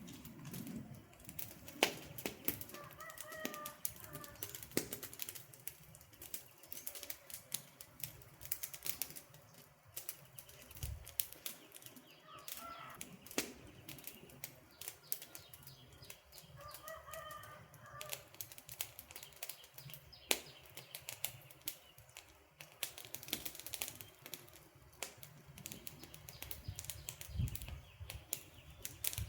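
Wood fire crackling, with frequent irregular sharp pops and snaps over a soft hiss. A bird calls faintly a few times in the background.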